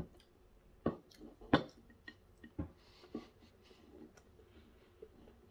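Quiet eating sounds of a person eating by hand: chewing with a handful of short mouth clicks and smacks, the sharpest about one and a half seconds in.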